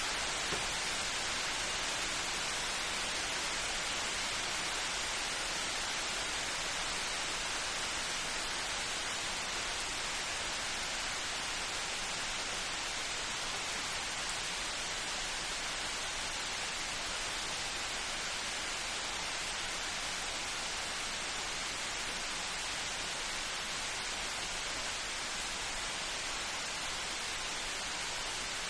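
Steady rain falling as an even hiss, with no thunder or other distinct events.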